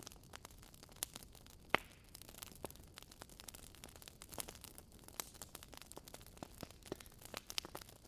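Wood fire burning in a fireplace, crackling: irregular sharp pops and snaps of burning logs over a faint hiss, with one louder pop a little under two seconds in.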